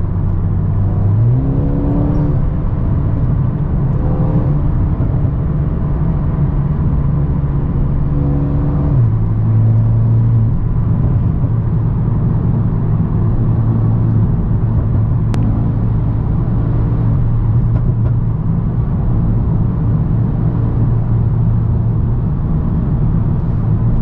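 Mercedes-AMG A35's turbocharged four-cylinder engine, with a stage 1 remap and the rear exhaust silencer removed, running under a steady cruise, heard from inside the cabin with road noise. Its note steps up in pitch about a second in, holds, and drops back near nine seconds in, like gear changes.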